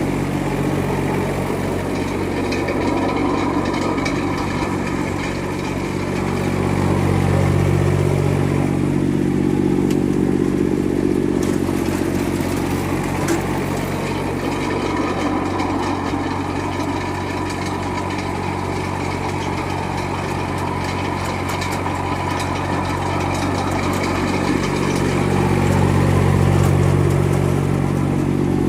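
Three-cylinder diesel engine of a Yanase IZ-Y11-17HD snow blower running steadily, its low note swelling louder twice, once around seven to eleven seconds in and again near the end.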